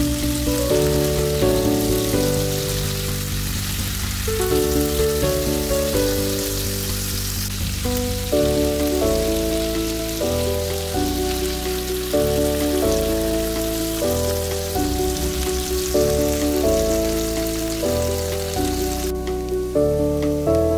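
Background music with held notes changing every second or so, over the sizzle of chicken pieces frying in oil in a pan. The sizzle cuts off suddenly near the end while the music carries on.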